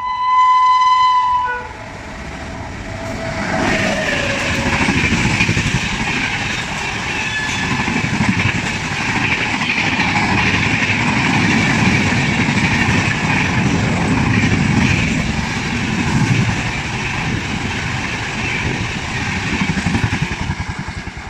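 Indian Railways electric locomotive sounding a horn blast of about a second and a half, then a train running past at speed with steady wheel-and-rail noise and rumble.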